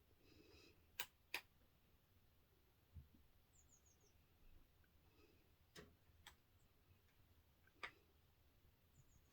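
Near silence broken by a few faint, sharp clicks spread across several seconds, with a short run of faint, high, falling chirps about halfway through.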